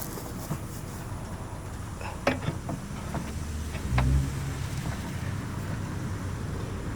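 Metal work on a car's exhaust underneath the car: a sharp metallic clink about two seconds in and a knock with a short low thud about four seconds in, over a steady low rumble.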